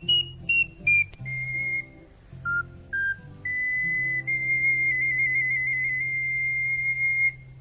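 Ocarina playing a few short high notes, then a long held final note with a brief trill in the middle, over low sustained backing music; it stops a little after seven seconds in.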